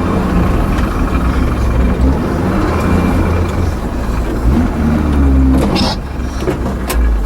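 Pickup truck driving, a steady low engine hum with road noise; the engine note shifts about five seconds in, and a couple of sharp clicks come near the end.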